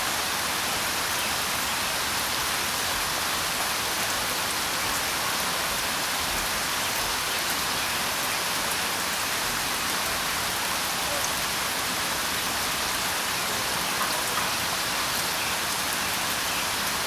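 Steady rain falling: an even hiss of many drops, with faint ticks of single drops.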